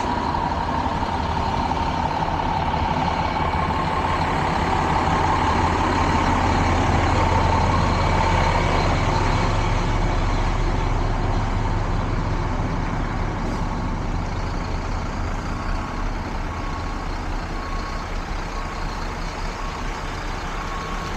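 A heavy truck's engine running steadily, swelling slightly and then easing back, with a faint repeated beeping in the second half.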